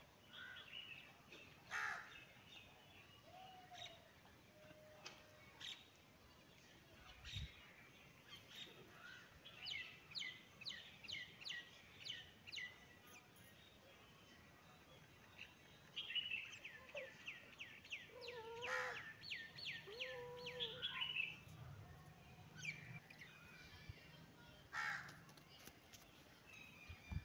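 Faint outdoor bird calls: two runs of quick, downward-sweeping chirps, the second longer, with scattered single calls in between.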